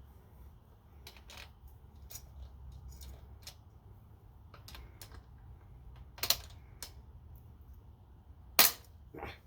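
Scattered small clicks and metal clinks of hand tools working at a stuck cutting wheel, with a sharper knock a little past six seconds and a loud knock about eight and a half seconds in.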